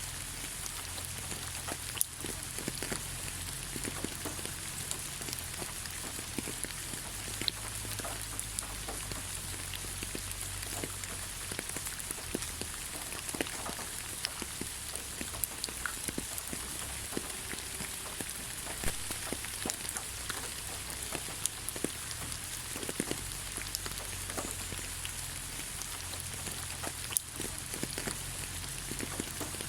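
Rain falling on leaves: a steady hiss with many separate drops ticking irregularly, a few louder ones standing out.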